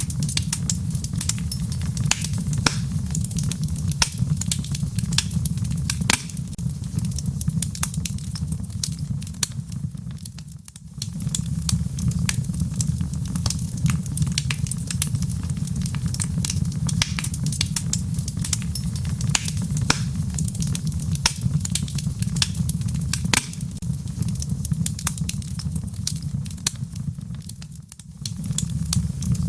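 Wood fire crackling in a fireplace: dense sharp pops and snaps over a steady low rumble of flame. The sound briefly dips twice, about a third of the way in and near the end.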